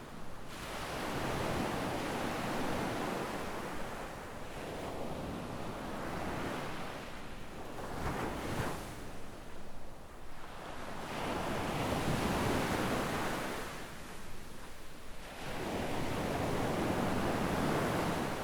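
Small ocean waves breaking and washing up on a sandy beach, the surf swelling and fading about four times, with a brief sharper splash near the middle.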